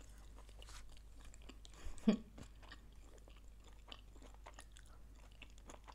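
Close-miked mouth sounds of someone chewing food, with many small wet clicks and crunches. One brief louder sound comes about two seconds in.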